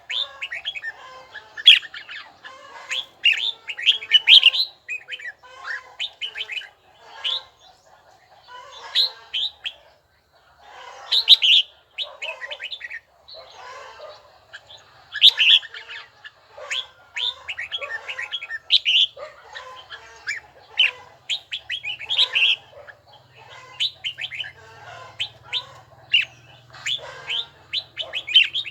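Red-whiskered bulbul singing: short, quick chirping phrases repeated every one to two seconds, with a brief lull about eight seconds in.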